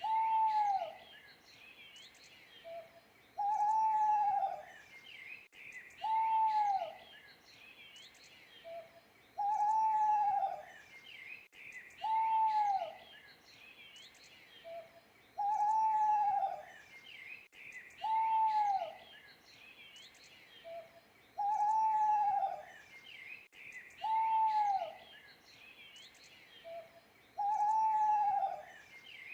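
An owl hooting: loud calls that rise and fall in pitch, one about every three seconds, with a short fainter note before every other call. Small birds chirp faintly in the background.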